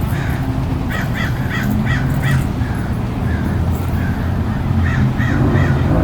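A bird calling: a quick run of about five short, repeated calls about a second in, and three more near the end, over a steady low rumble.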